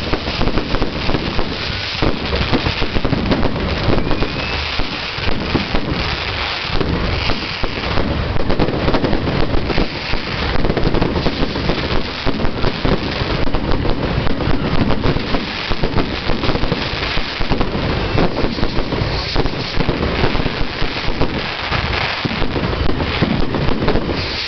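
Fireworks display: a dense, continuous barrage of bangs and crackles, with frequent sharp peaks and no pause.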